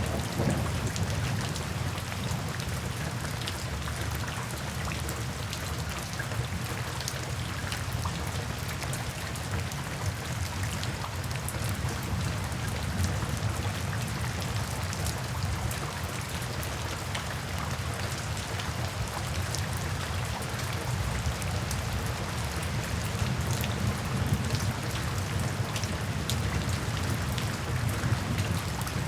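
Steady rainfall with many fine drop impacts, over a low continuous rumble.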